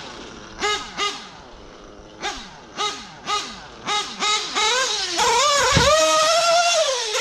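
LRP nitro engine in an RC car being blipped on the throttle: a string of short, sharp revs, each rising and then falling back, about two a second. Near the end it is held at high revs for about two seconds before the revs drop off.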